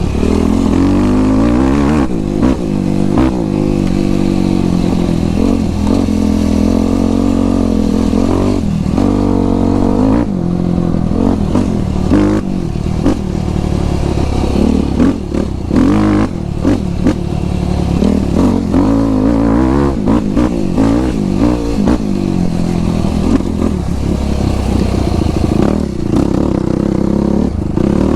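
Yamaha YFZ450 sport quad's single-cylinder four-stroke engine being ridden, revving up and dropping back again and again as the throttle is worked, with occasional knocks and rattles.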